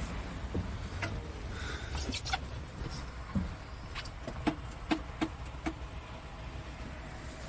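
A scattered run of light clicks and taps, about half a dozen through the middle of the stretch, over a low steady rumble.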